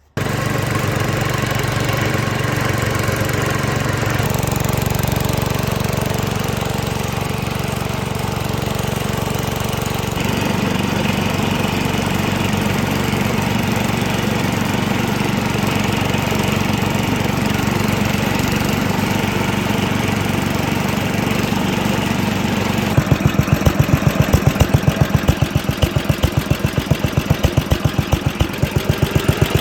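Engine of a 1967 Simplicity 2210 Landlord garden tractor running steadily while mowing. About 23 seconds in, the sound turns louder, with a distinct, even pulsing beat from the engine.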